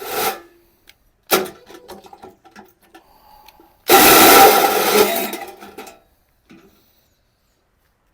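Drill driving a hole saw into the steel wall of an ammo can in short bursts, the longest and loudest about four seconds in, lasting about two seconds: metal-on-metal cutting of the burner hole.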